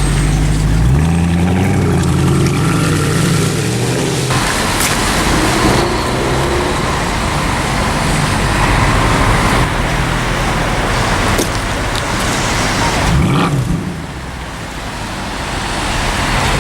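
Sports car engine accelerating hard in street traffic: its note rises in pitch about a second in, then a loud rush of engine and road noise follows. It eases off near the end and builds again.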